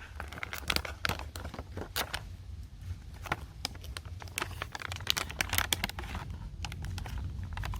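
Plastic snack packaging being handled and opened: scattered light clicks and crinkles at an uneven pace, over a low steady hum.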